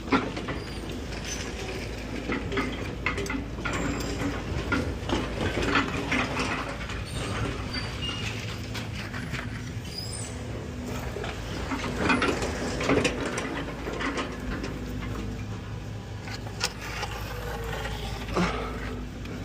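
Diesel engine of heavy demolition equipment running steadily, with irregular clatter and crunching of debris being handled.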